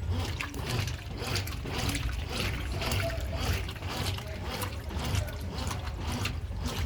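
Water and clothes sloshing and splashing in the tub of a Consul Maré 10 kg top-loading washing machine as it agitates, with a weaker low motor hum underneath.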